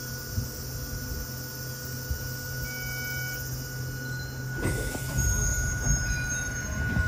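Hakone Tozan Railway Moha 1 electric railcar with a steady hum. About two-thirds of the way in, louder running noise sets in and a thin, high wheel squeal sounds briefly.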